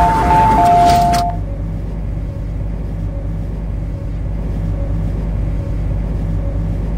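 A two-tone chime, alternating between two notes over a loud hiss, cuts off about a second in. After that comes the steady low hum of an MTR C-Train's equipment while it stands at the platform.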